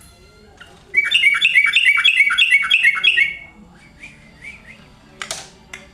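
Sooty-headed bulbul calling: a loud, rapid run of about nine chirping notes, roughly four a second, lasting some two seconds, followed by a few softer notes and a short sharp rattle near the end.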